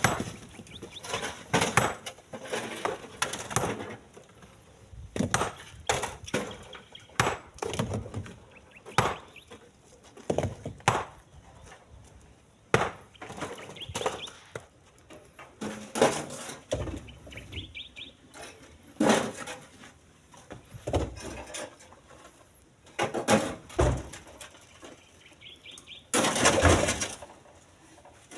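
Split stones being thrown by hand into a truck bed: a string of irregular knocks and clatters, one or two a second with short pauses, the loudest about a second before the end.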